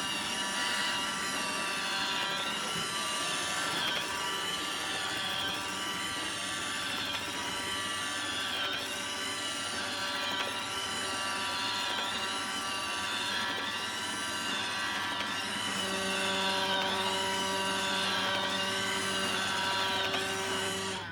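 iRobot Roomba 770 robot vacuum running, its motors giving a steady whine with a rhythmic warble about once a second. About 16 s in the pitch shifts and it gets slightly louder. The robot is running with a brush fault that it flags as a brush-cage error.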